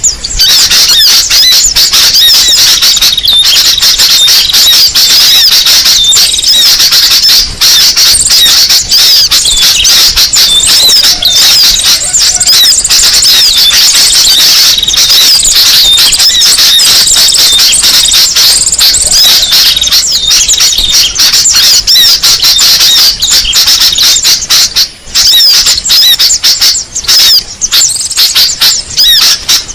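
Dense, unbroken chatter of many small songbirds: rapid high chirps and trills overlapping without pause, played loud as a pikat lure call for drawing in small birds.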